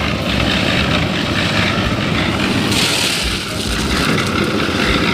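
A machine running steadily, a dense continuous noise that turns hissier about halfway through.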